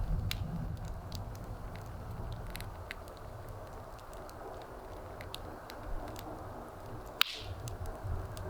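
Wood fire burning with scattered small crackles over a low steady rumble, and one sharp wood pop about seven seconds in.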